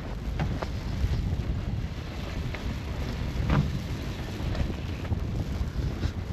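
Strong snowstorm wind buffeting the microphone in a steady low rumble, with footsteps crunching in snow on top, the loudest about three and a half seconds in.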